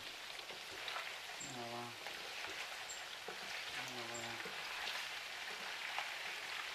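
Meatballs sizzling as they fry in a pan: a steady hiss with occasional faint crackles.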